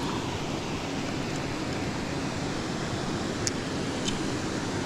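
Steady rushing of flowing creek water, with a couple of faint high ticks late on.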